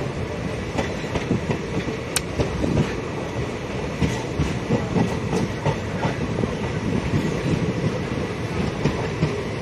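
Passenger express train running at speed: a steady rumble with the irregular clatter of wheels over rail joints.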